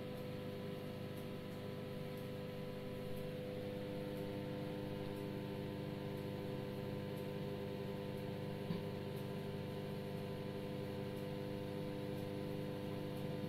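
De'Longhi P90D25EL microwave oven running through a timed cycle: a steady hum with several constant tones, which the owner calls quite noisy. A small click sounds about two-thirds of the way through.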